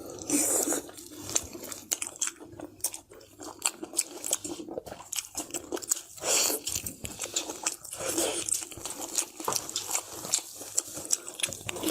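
A person chewing and biting food close to the microphone, with many irregular sharp mouth clicks and wet smacks.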